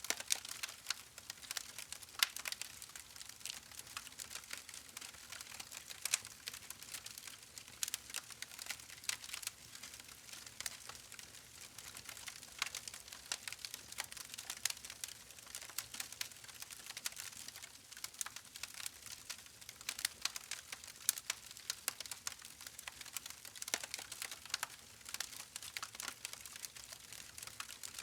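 Wood campfire crackling: irregular sharp pops and snaps, a few to several a second, over a faint steady hiss of burning.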